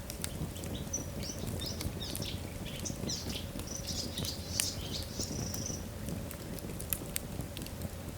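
Wood fire burning in a fireplace: a steady low rumble with frequent sharp crackles and pops. From about a second in until near six seconds, a run of short high-pitched chirping squeaks rises over the crackle, one of them drawn out.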